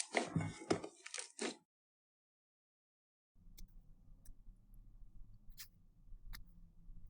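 Slime being squeezed and poked: a dense run of crackling and popping for about the first second and a half, then a short dead silence. After that come a few sharp clicks and pops over a low hum.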